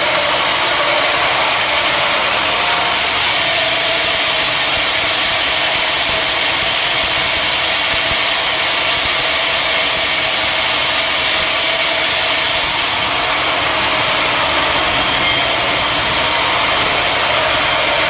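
Sawmill machinery running with a loud, steady, unbroken mechanical noise.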